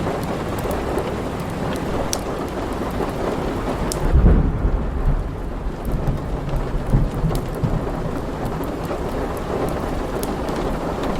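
Steady heavy rain with a low rumble of thunder that swells about four seconds in and rolls on for a few seconds. Occasional sharp crackles from a wood fire sound over it.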